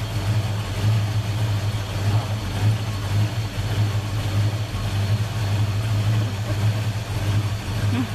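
A classic Mopar car's engine running steadily, a low even drone with a slight pulse.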